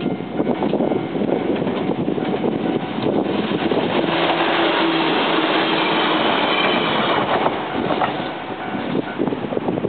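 Enshu Railway electric train running past over the level crossing, a loud steady rail noise. A steady whine rises above it from about four seconds in and fades out at about seven and a half seconds.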